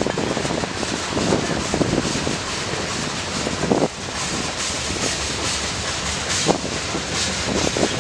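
Train rolling past, its steel wheels running on the rails as a steady rumble and hiss, with a few brief clanks.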